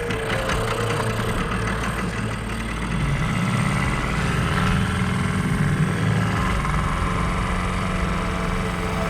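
Small outboard motor running steadily on a dugout canoe while trolling, getting a little louder about three seconds in.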